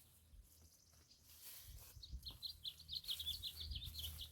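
A small songbird singing a fast, high chirping trill, about seven notes a second, starting about halfway through, over a faint low rumble.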